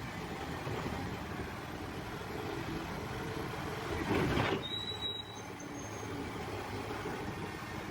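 Hyundai 305-9T hydraulic excavator running steadily. About four seconds in there is a louder rush, followed by a brief high squeal.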